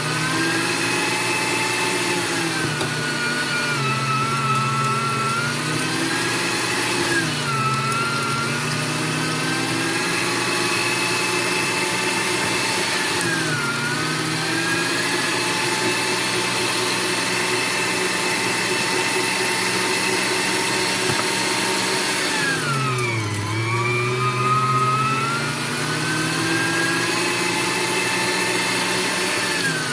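Electric meat grinder's motor running steadily with a hum, its pitch sagging and recovering several times as meat is fed in and loads it, the deepest slowdown about three-quarters of the way through.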